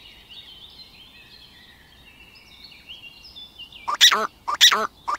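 Small birds twittering faintly. About four seconds in, a larger bird gives three loud, short calls in quick succession, about half a second apart.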